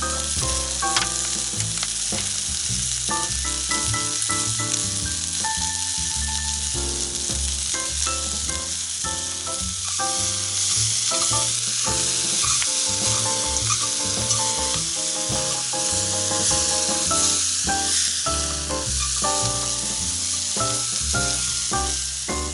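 Food sizzling as it fries in a pan over a campfire, a steady hiss throughout, over background music with a bass line and melody.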